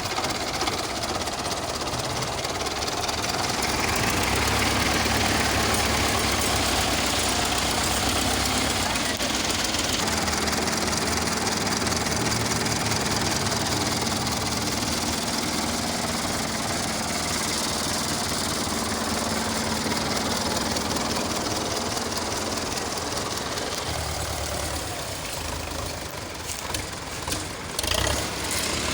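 Tractor diesel engine running steadily under load, swelling a few seconds in and easing off near the end, with a few sharp knocks late on.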